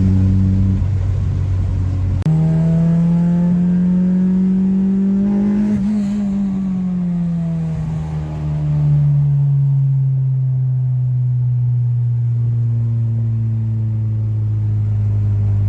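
Honda K-series four-cylinder engine heard from inside the car at highway speed. Its revs jump suddenly a couple of seconds in, climb to a peak around the middle, then fall away and hold steady.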